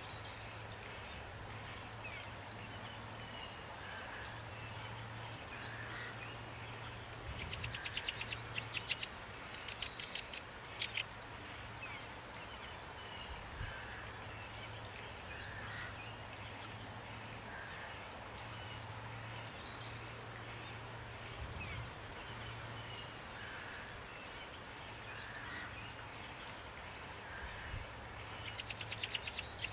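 Steady rain hiss with songbirds calling over it: many short high chirps and whistles, a lower soft call repeated every couple of seconds, and a rapid trill about seven seconds in and again near the end.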